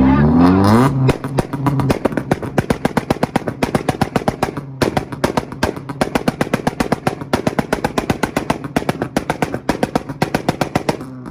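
Car engine revved up over about a second, then held on a two-step launch-control rev limiter, its exhaust firing a rapid, machine-gun-like string of pops and bangs that stops just at the end.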